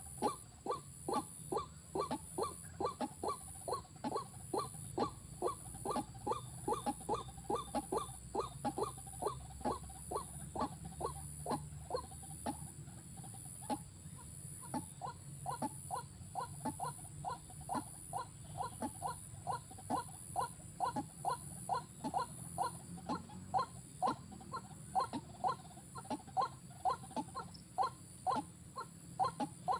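An animal calling over and over in short chirps, about three a second, with a brief pause about halfway through.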